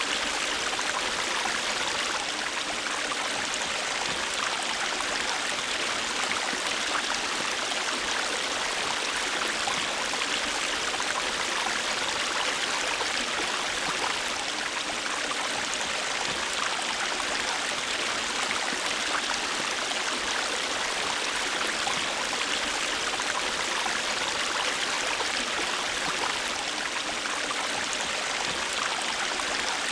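A river flowing over rocks: steady rushing and babbling water, even in level.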